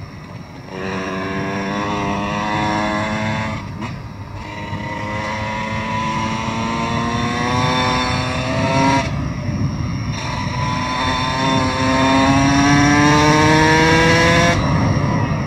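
Dirt bike engine pulling hard up through the gears at speed. The pitch climbs steadily, then drops briefly at each of three gear changes before rising again.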